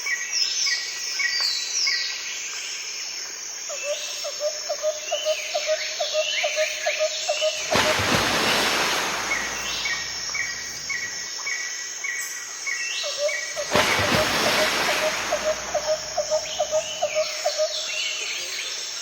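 Birds calling and chirping: runs of quick repeated chirps and short falling whistled notes, with twice a lower rapid call of about four notes a second lasting several seconds. Two loud rushing bursts of noise, each a second or two long, break in about eight and fourteen seconds in.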